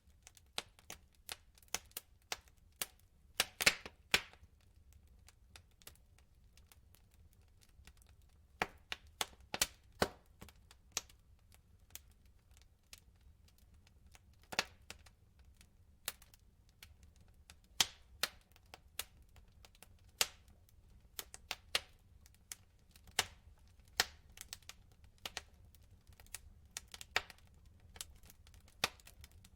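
Wood fire burning in a fireplace, the logs popping and crackling in irregular sharp snaps over a low steady rumble, with a quieter lull about five to eight seconds in.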